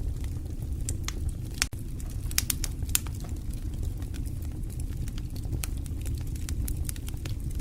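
Wood fire burning in a fireplace: a steady low rumble of flames with irregular sharp crackles and pops, most of them bunched about two to three seconds in.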